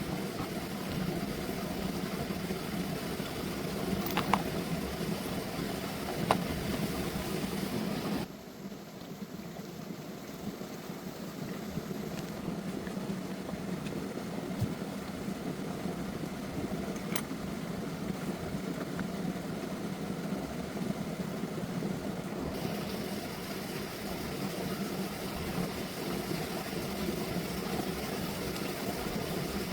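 An engine running steadily, with a few sharp clicks in the first several seconds. The sound changes abruptly about eight seconds in, and again about twenty-two seconds in.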